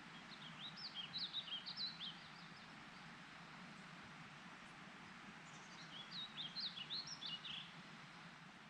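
A songbird sings two quick phrases of rapid, jumping high notes, one about half a second in and another past the middle. Beneath them runs a steady, even outdoor hiss.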